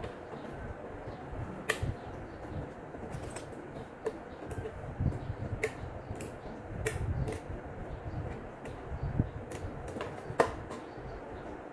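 Irregular sharp clicks and knocks, the loudest about two seconds in and near the end, over a low rumble.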